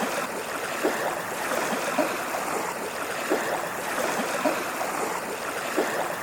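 Flowing water babbling steadily, with frequent small bubbling gurgles.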